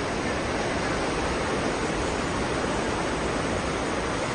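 Steady rushing noise at sea, wind and water passing a moving cruise ship, even throughout with a fluttering low rumble.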